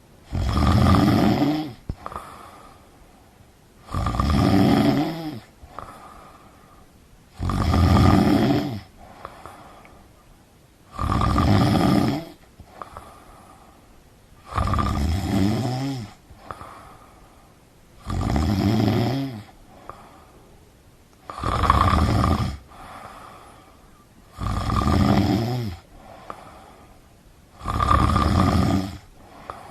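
Deep, steady snoring: nine loud snores, each about a second and a half long, coming about every three and a half seconds, with a faint breath between them.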